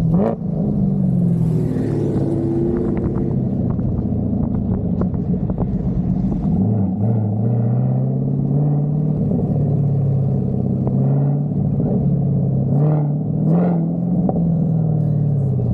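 A vehicle engine running at low revs with a deep rumble. Its pitch sinks slowly, steps up about six and a half seconds in and holds there, rises briefly twice near the end, then eases back down.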